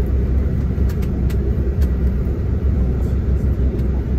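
Steady low engine rumble of a coach bus heard from inside the passenger cabin, with a few faint clicks and rattles.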